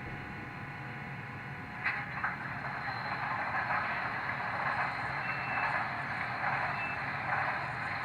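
Diesel locomotive sound of a GE U25B from an HO-scale model's factory sound decoder, played through the model's small speaker and running steadily. A click comes about two seconds in, after which the sound turns louder and hissier.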